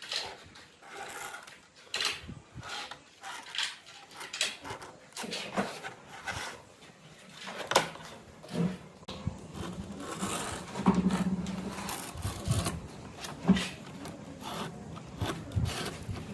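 Hand work on wood: irregular scraping and rubbing strokes with light knocks.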